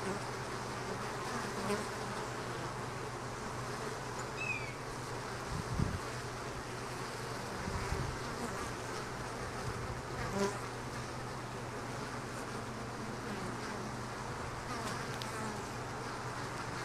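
Honey bees buzzing around an opened hive: a steady hum that swells briefly a few times.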